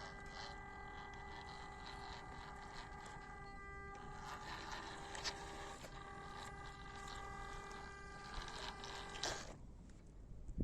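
Small electric motor and gears of a 1/16-scale WPL C24 RC crawler whining at a steady pitch, with clicks and crunches of the tyres over rough ground. The whine stops about nine seconds in.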